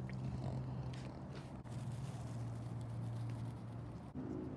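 A steady low hum with a few faint clicks and taps; the hum changes abruptly twice.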